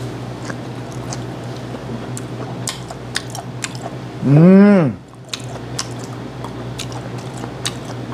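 A person chewing a whole grilled gizzard shad, eaten bones and all, with many small crunching clicks. About four seconds in comes one loud hummed "mmm" of enjoyment that rises and falls in pitch.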